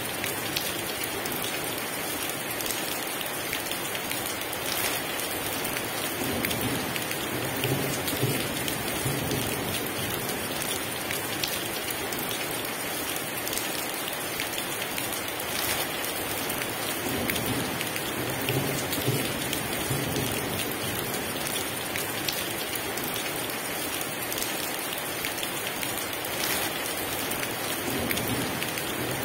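Heavy rain falling steadily, with low rumbles of thunder swelling a few times.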